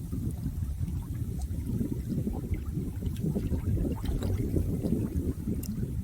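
Moving water: a steady, low churning rush with faint scattered ticks over it.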